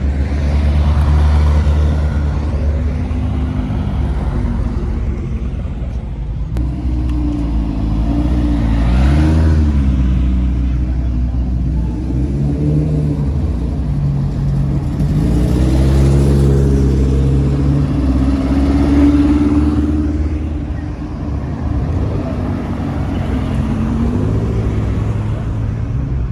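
Car engines running in traffic, idling and revving, with engine speed rising and falling several times.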